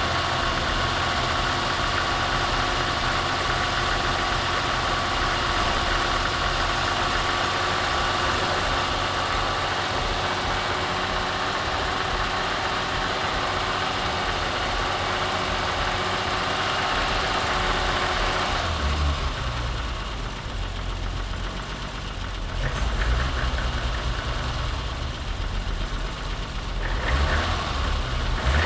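BMW E30's M20 straight-six engine idling with a steady hum; about two-thirds of the way through the sound changes, turning lower and uneven. The owner puts the engine's odd behaviour down to a sticky throttle.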